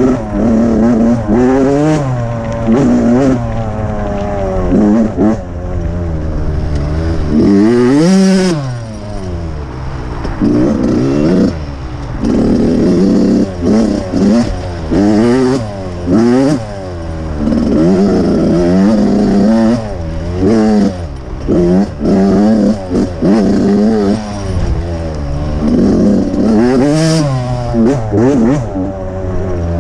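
Dirt bike engine being ridden hard, its pitch climbing and falling every second or two as the throttle is opened and closed, with a deep drop and climb about eight seconds in.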